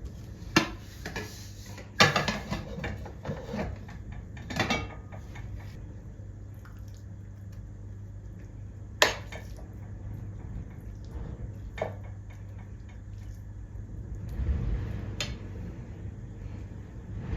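Dishes and cutlery being handled: a few separate clinks and knocks, the sharpest about nine seconds in, over a steady low hum.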